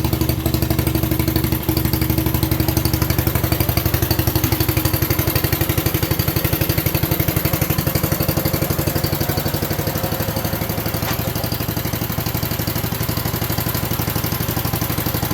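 A 7 hp Briggs & Stratton single-cylinder engine on a 1967 Unico garden tractor running steadily with an even putter while the tractor drives.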